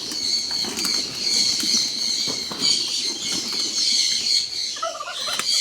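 A dense chorus of small birds chirping continuously, with the fluttering of pigeons' wings as the flock is let out of the loft.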